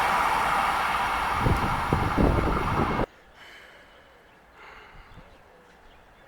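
A train passing through a station, its rolling noise slowly fading, with a few low knocks near the middle. It cuts off abruptly about three seconds in, leaving only faint background.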